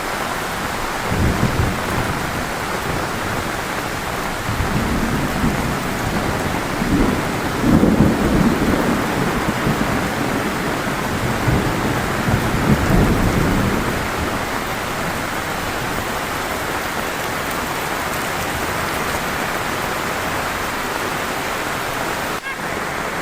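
Heavy rain pouring steadily, with low rumbles of thunder rolling in about a second in, swelling loudest near the middle and dying away after about fourteen seconds.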